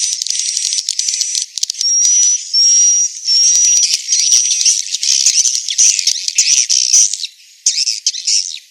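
Edible-nest swiftlet calls played as a lure track: dense, high-pitched twittering chirps in quick runs, with a thin steady whistle-like tone in short stretches through the first half. It is a 'tarik' (attraction) sound meant to draw swiftlets into a bird house.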